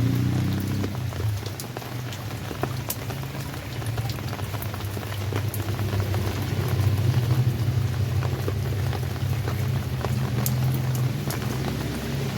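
Rain falling steadily, with many scattered sharp drip ticks over the patter and a steady low rumble underneath.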